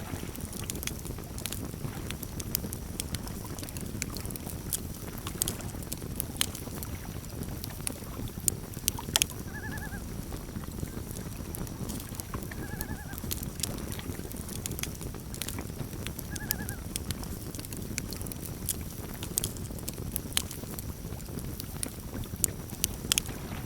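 Campfire crackling, with frequent sharp pops and snaps over a steady low rumble of burning wood. Three short high calls sound about three seconds apart near the middle.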